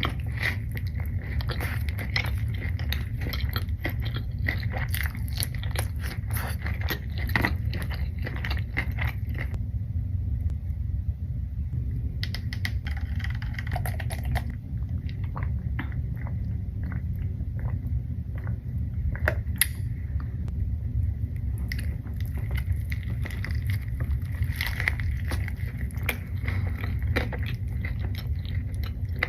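Close-miked eating sounds: chewing and biting food, with many small wet clicks and crackles, over a steady low rumble.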